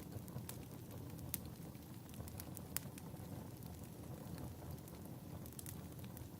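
Fireplace crackling: a steady low rumble of burning logs with sharp pops and snaps at irregular intervals, a few stronger ones standing out.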